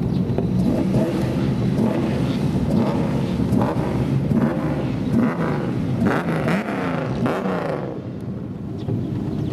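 Engines of several old custom cars running with loud exhausts, their revs rising and falling as they move past.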